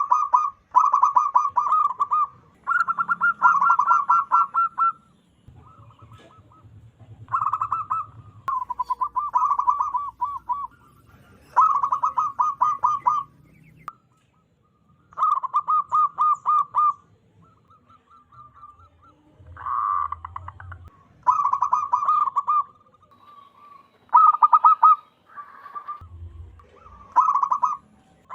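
Zebra dove (perkutut) calling: repeated bursts of rapid staccato coos, each burst lasting a second or two, with short pauses between them.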